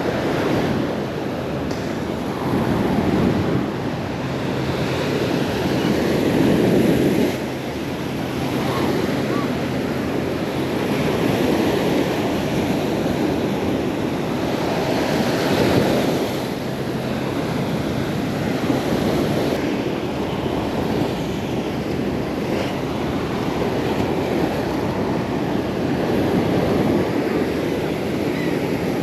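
Surf washing on a beach, with wind buffeting the microphone; the noise swells and eases, loudest about six or seven seconds in.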